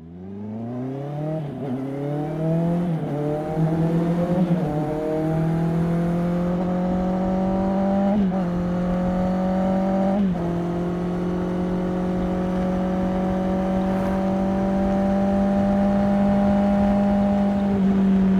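Honda CB650R inline-four running through an IXIL aftermarket exhaust. It fades in and accelerates up through the gears, the pitch climbing and briefly dropping at each shift for the first ten seconds or so. Then it holds a steady cruise, with one more quick dip near the end.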